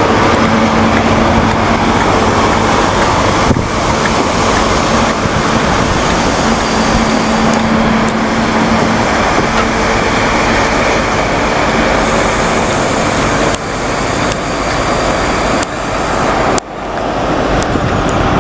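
GWR HST (Intercity 125) passing close by: the class 43 diesel power car's engine goes by with a steady hum, then the Mark 3 coaches roll past with a continuous loud rumble of wheels on rail.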